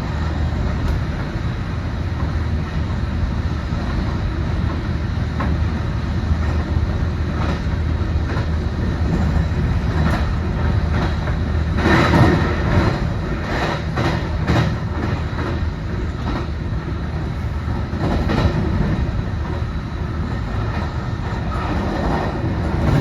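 Train running along the track with a steady rumble. About halfway through comes a quick run of clicks as the wheels cross rail joints.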